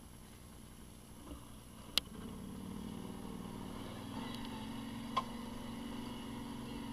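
A vehicle engine running steadily, growing louder about two seconds in, with two sharp clicks, about three seconds apart.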